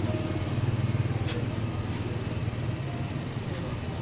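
A motor vehicle's engine running with a low, steady hum that slowly fades, street traffic noise around it, and one sharp click just over a second in.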